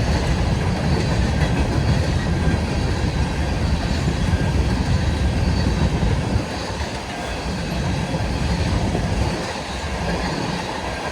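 Empty grain hopper cars of a freight train rolling past, steel wheels running on the rails. The low rumble eases about six seconds in.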